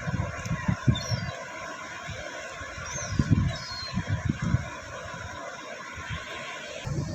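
Wind buffeting the microphone in uneven gusts over a steady wash of sea surf, with a few short, high bird chirps about a second in and again around three seconds in.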